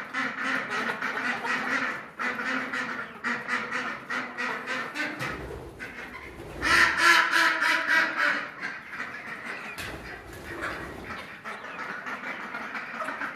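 Chickens eating from scattered feed: many quick pecking clicks and soft calls throughout, with one louder, drawn-out call about six and a half seconds in.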